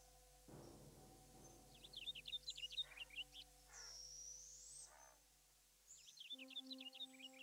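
Faint birdsong from wild songbirds: two bursts of rapid high chirps, with a single thin high whistle between them that rises and falls. Soft sustained music tones come in near the end.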